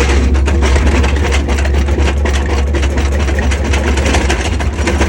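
Heavy engine running steadily with a strong low drone, under a dense crackling rattle.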